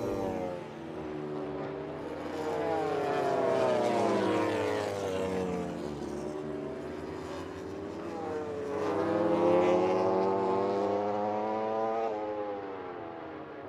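MotoGP racing motorcycles running at high revs, their pitch climbing through the gears and dropping as they pass. Two passes are loudest, about four and about ten seconds in.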